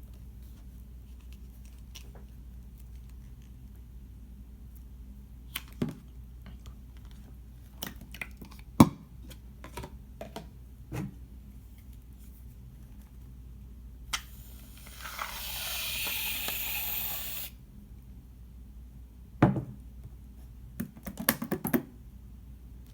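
Scattered clicks and knocks of containers being handled, then an aerosol can of shaving foam spraying with a steady hiss for about three seconds, followed by a few more clicks and taps.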